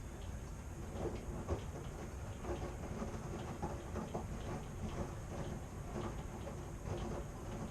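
Washing machine running: a steady low rumble with irregular knocks several times a second.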